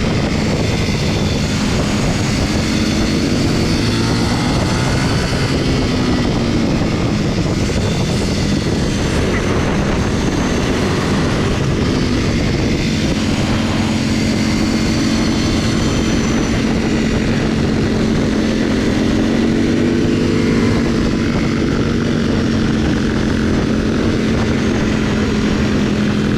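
Motorcycle engine running at road speed with wind rushing over the microphone. The engine's pitch rises and falls gently as the throttle changes.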